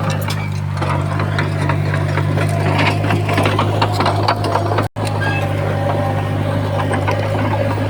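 Komatsu D51PX bulldozer's diesel engine running steadily under load, with frequent small clicks and rattles over its low hum. The sound cuts out for an instant just before five seconds in.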